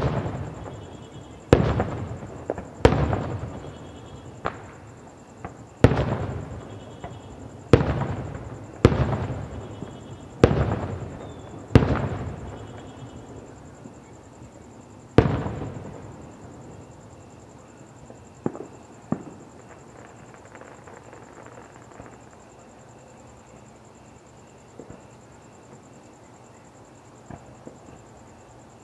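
Aerial fireworks shells bursting: about ten loud booms in the first fifteen seconds, each echoing and fading away. After that come a couple of faint pops, and the display goes quiet.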